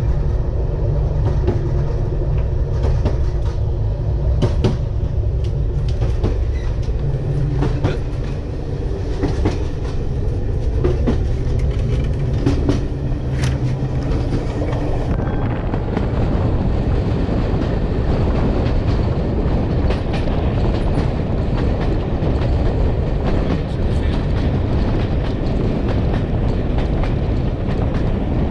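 Heritage train running along the line: a steady low rumble with the clicks of wheels over rail joints. About halfway through the steady tones drop away and an even rushing noise takes over.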